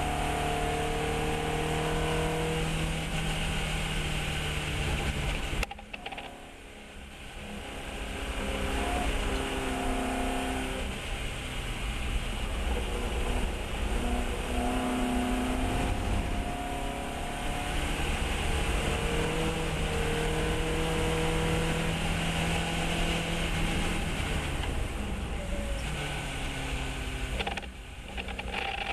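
Fiat 132 race car's engine driven hard on track, its pitch climbing and falling repeatedly as it accelerates and shifts. About six seconds in the sound cuts off sharply as the throttle is lifted, then builds again; there is one more brief lift near the end.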